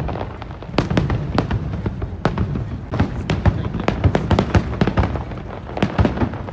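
Aerial fireworks shells bursting: a dense, irregular run of sharp bangs and crackles over a low rumble.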